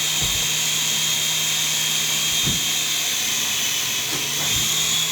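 Small electric RC helicopter hovering, its motor and rotor giving a steady high whine, with a few brief low thumps.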